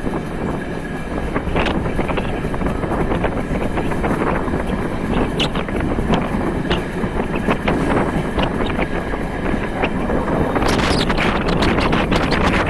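Passenger train running along the track: a steady rumble of wheels on rail with scattered clicks, and wind on the microphone. The wind hiss grows louder about ten seconds in.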